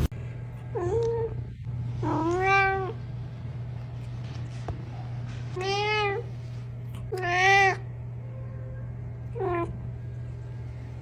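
Domestic cat meowing five times, each meow rising and falling in pitch, with a steady low hum underneath.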